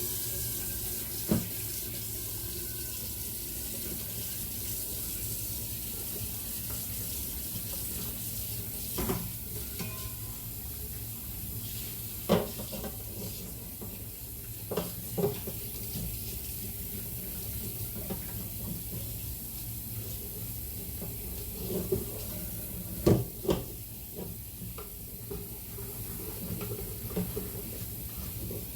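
Kitchen tap running steadily into a sink as food is washed under it, with a few sharp knocks and clunks against the sink.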